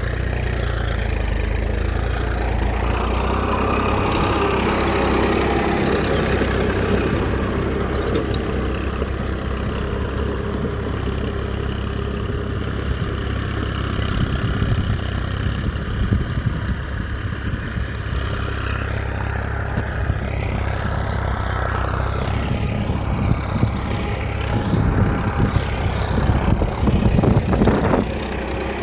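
A DIY mini tractor's small motor runs steadily with a low hum. In the last few seconds it is joined by uneven knocking and clattering that grow louder.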